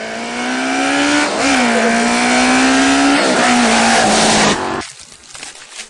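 Vintage racing motorcycle accelerating hard up the hill, the engine note rising and dropping at two gear changes. The sound cuts off abruptly near the end.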